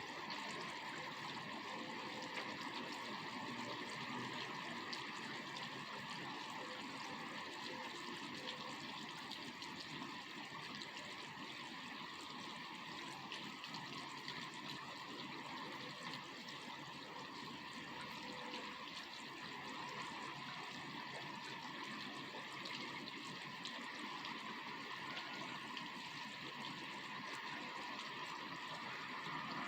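Rain falling steadily: an even wash of water sound flecked with many small drop hits, with no break or change.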